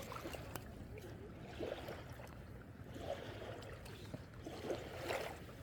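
Faint water sounds with small, scattered handling noises over a low steady rumble, while a small freshly caught fish is unhooked.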